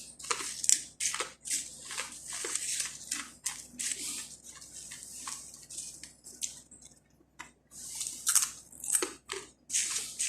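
Close-up crunching and chewing of crisp fried khubz flatbread seasoned with noodle seasoning powder: an irregular run of crackly bites and crunches, with a short pause about two-thirds of the way through.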